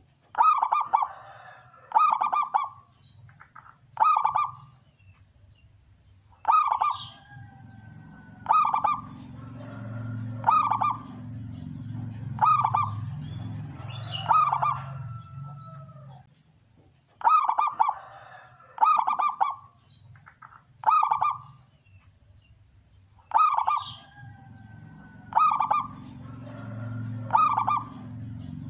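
Male zebra dove (perkutut) singing its cooing song, with loud phrases repeated about every two seconds in two runs separated by a pause of several seconds. A steady low hum and a faint thin high whine run underneath.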